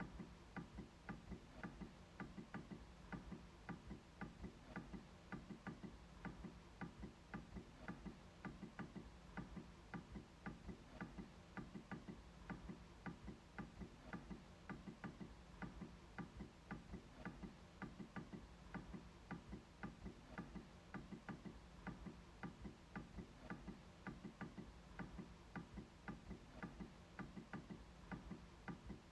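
MacBook trackpad being clicked over and over, faint, at about three clicks a second.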